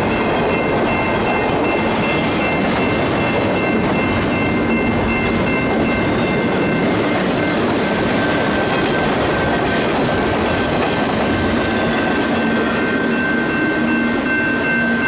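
Empty intermodal well cars of a freight train rolling past at close range: a loud, steady rumble and rattle of wheels and empty car bodies on the rails, with a steady high-pitched squeal over it.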